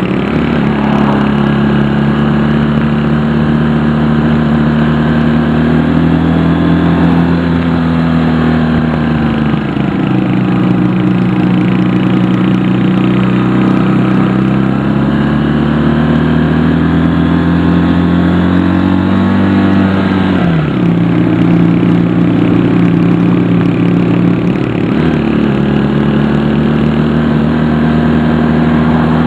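Honda CD175 motorcycle's twin-cylinder engine running while riding. Its pitch rises and falls with the throttle, and the revs drop and climb again about ten, twenty and twenty-five seconds in.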